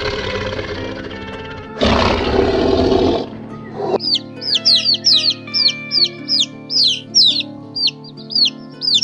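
Background music with a loud, rough animal call in the first three seconds, then a run of about a dozen short, high chirps, each sweeping downward, two or three a second, from a small bird or chick.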